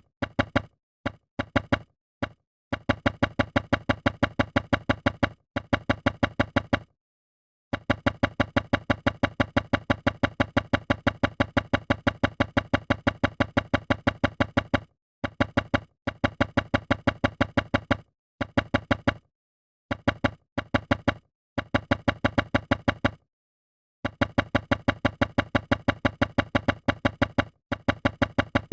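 Rapid, evenly spaced clicks of plastic Lego bricks, several a second, in runs broken by short gaps of dead silence: an edited-in clicking track laid over the stop-motion build.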